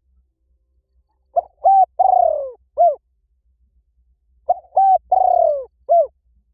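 A bird's cooing call, one four-note phrase given twice about three seconds apart. The third note is longer and falls in pitch.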